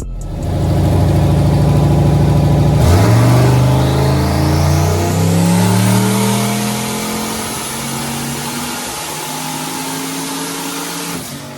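Turbocharged LS V8 making a wide-open-throttle pull on a chassis dyno. After a few seconds at a steady lower note, the engine suddenly gets loud about three seconds in and its pitch climbs steadily through the revs, with a high whine rising over it. The engine lets off just before the end.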